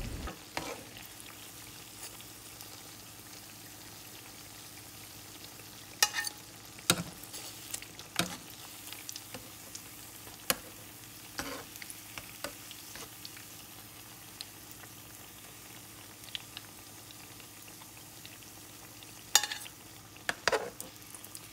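Battered banana fritters (maruya) frying in a pan of oil with a steady sizzle. Scattered sharp clicks and taps come through it, a few about six to eight seconds in and again near the end.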